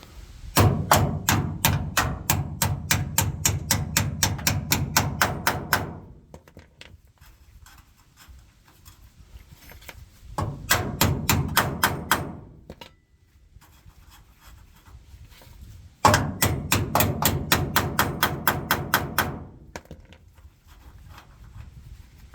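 Hammer driving steel leaf-spring bolts out of a truck's spring mounts: three runs of fast, even metal-on-metal blows, about five a second, the first about five seconds long and the later two shorter.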